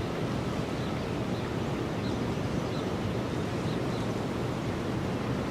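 Steady rushing outdoor noise of wind and flowing river water, with faint short high chirps scattered through it.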